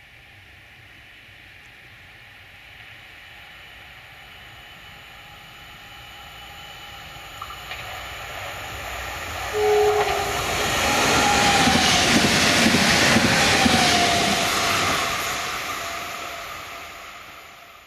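HŽPP electric multiple-unit passenger train approaching, passing close by and receding, its wheel-on-rail rush swelling to a peak and fading away. A brief tone sounds as it gets loud, about ten seconds in, followed by a whine that drops in pitch as the train goes by.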